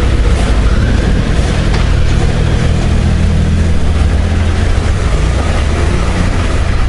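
Eurotunnel shuttle train carriage running, a loud, steady low rumble with a hum, heard from inside the carriage.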